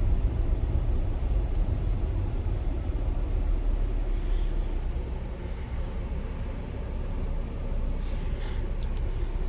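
Steady low rumble of road and engine noise heard inside the cabin of a Dodge Durango SUV while driving.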